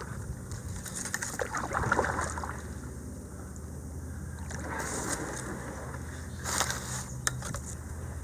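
Kayak paddle strokes splashing in shallow creek water, a few irregular splashes with a couple of sharp knocks, over a steady low hum.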